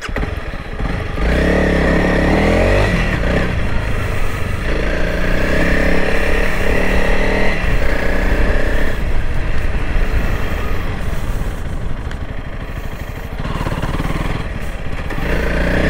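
Honda CRF300L Rally's single-cylinder engine, restarted after a stall, running under way with the revs rising and falling as the bike rides off.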